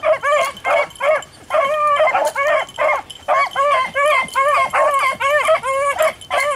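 Beagles baying on a rabbit's trail: a fast, unbroken run of high, yelping hound barks, about three a second, the sound of the pack in full cry on a hot scent.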